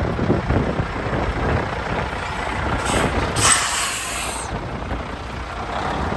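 Peterbilt 379 semi truck's diesel engine running with a steady low rumble, and a little past the middle a sharp hiss of air from the air brakes lasting about a second.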